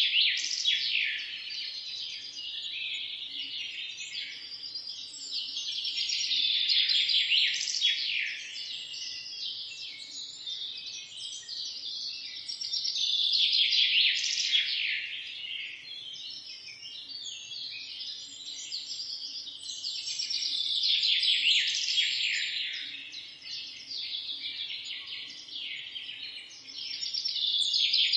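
Dense chorus of chirping birds, many quick high calls overlapping, swelling louder and fading back about every seven seconds.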